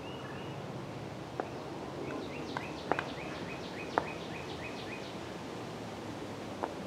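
Open-air ambience with a small bird singing a quick run of about a dozen short, falling chirps, roughly four a second, through the middle. A few sharp clicks or knocks sound among them, the loudest about four seconds in.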